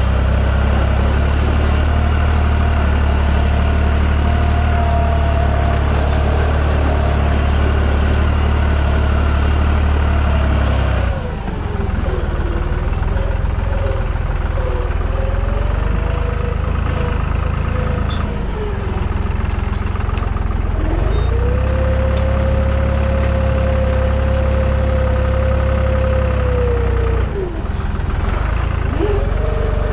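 Deutz 55F tractor engine running steadily while pulling a cultivator, with a whine that wavers up and down in pitch. About eleven seconds in, the engine's low steady note drops away and turns rougher, then returns about ten seconds later.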